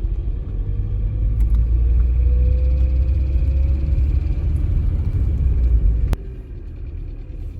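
Van driving, heard from inside the cabin: a steady low road and engine rumble with a faint engine note rising slowly in pitch. The sound drops abruptly about six seconds in.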